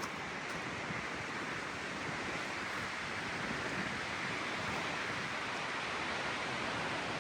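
Windstorm wind blowing hard and steadily as a rushing noise, building slightly.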